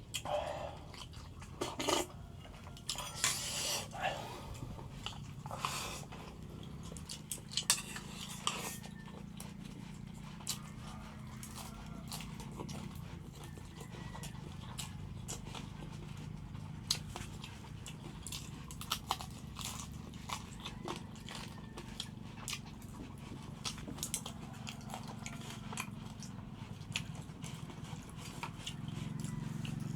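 Eating sounds: crunching and chewing, busiest in the first several seconds and then thinning to scattered clicks, over a steady low hum.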